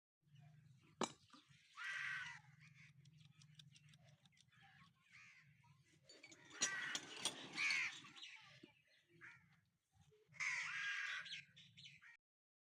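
Crows cawing in harsh calls, three main bouts spread over several seconds, over a faint low hum.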